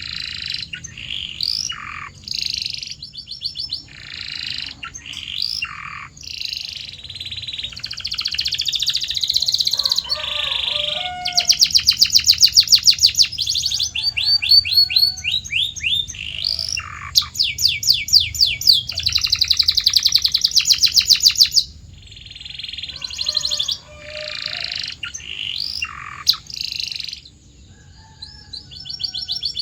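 Domestic canary singing a long song of varied phrases, switching between fast rolling trills of repeated notes, short rising and falling whistles and chirps, with its loudest fast trills about a third and two thirds of the way through.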